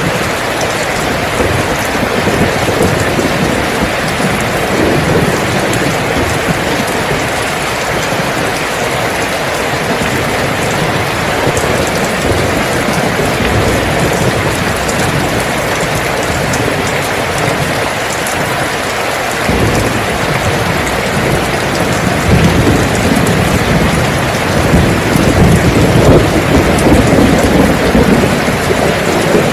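Steady heavy rain falling. Low rumbling thunder sets in about two-thirds of the way through and grows louder near the end.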